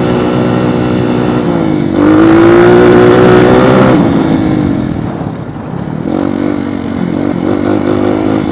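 2008 dirt bike engine running hard at high revs while riding. Its pitch dips and climbs again about two seconds in as the throttle opens wider. It eases off at around four seconds, then picks back up to a steady high rev about six seconds in.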